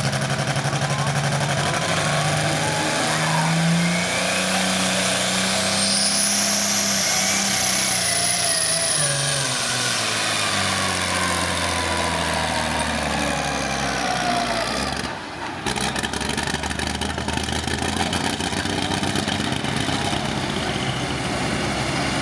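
Diesel engine of a pulling vehicle running hard under load on a pull. Its pitch climbs a few seconds in and falls away over the next ten seconds, with a high whistle rising and fading above it. There is a short break about fifteen seconds in, and then a steadier engine sound.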